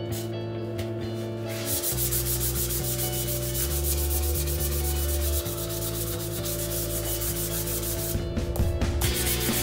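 Hand-sanding the blade of a cricket bat: quick, even back-and-forth rubbing strokes across the wood. The strokes start about two seconds in and pause briefly near the end, with background music underneath.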